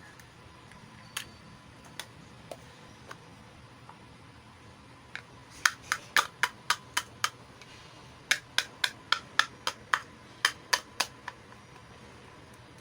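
Small plastic toy pieces clicking and tapping: a few scattered clicks, then three quick runs of sharp clicks, several a second, in the second half.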